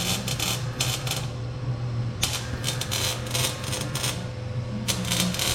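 Wrench working on the exhaust: three short bursts of rapid metallic clicking, over a steady low hum.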